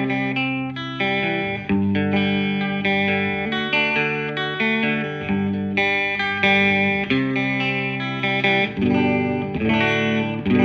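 Fender Stratocaster electric guitar played through an amplifier on its middle single-coil pickup. Chords are struck one after another and left to ring.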